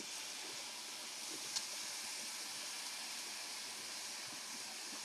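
Chicken pieces frying in a little butter in a pan, giving a faint, steady sizzling hiss, with one small click about a second and a half in.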